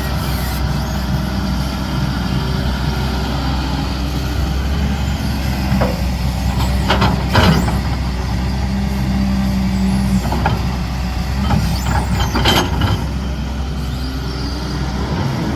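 CAT 320D excavator's diesel engine running steadily under work, its note changing about ten seconds in. Brief sharp clanks or hisses break in around seven seconds and again around twelve seconds.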